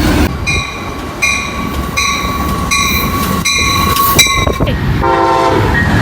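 A train rumbling past with a bell ringing in a steady beat, about once every three-quarters of a second. About five seconds in, a locomotive horn sounds a held chord.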